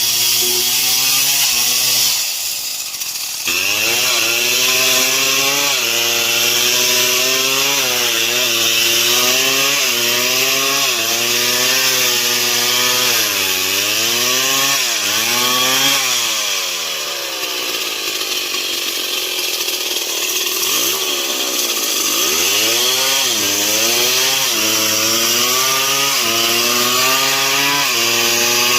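Stihl MS 070 two-stroke chainsaw cutting wood under load. Its engine pitch sags and recovers again and again as the chain bites, with a brief dip about two seconds in and a longer sag past the middle.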